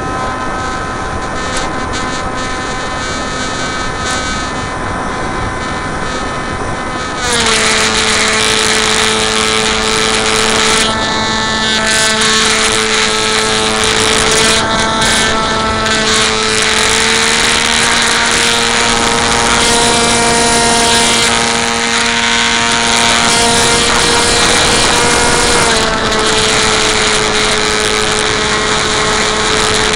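Bixler RC plane's electric motor and propeller whining steadily. About seven seconds in the whine steps up in pitch and gets louder, then shifts slightly in pitch a few more times.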